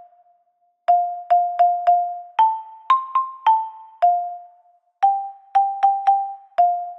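Cartoon background music: a simple, slow tune of single notes on a soft keyboard tone like an electric piano. Each note starts sharply and fades. Several notes repeat on one pitch before the tune steps up and back down, after a short pause about a second in.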